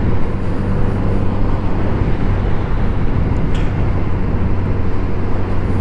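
Kawasaki motorcycle engine running with a steady, even hum while riding, under a constant rush of wind and road noise.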